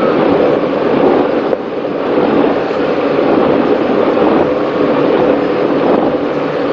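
Offshore racing powerboat running at speed, heard from onboard: a steady, loud engine drone mixed with rushing wind and water.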